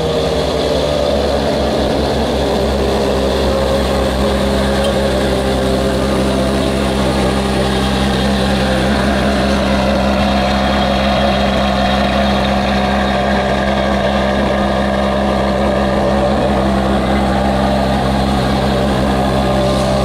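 Ferrari 599 SA Aperta's V12 idling steadily, heard close to its quad exhaust tips.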